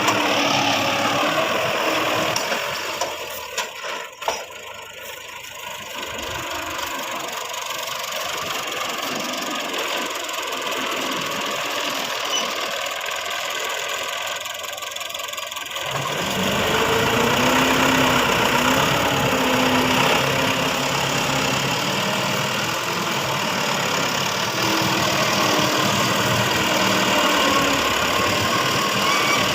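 Tractor engine running, its pitch wavering as the revs change. It fades to a quieter stretch a few seconds in, with a couple of sharp clicks, and comes back louder about halfway through.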